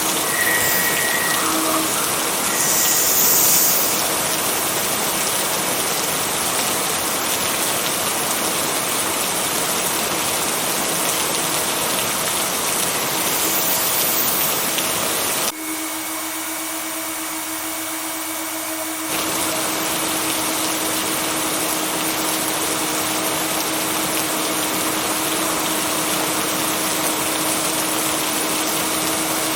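Steady rain noise, a dense even hiss, with a faint low steady tone running beneath it. About fifteen seconds in, the deeper part of the rain drops away for a few seconds and then comes back.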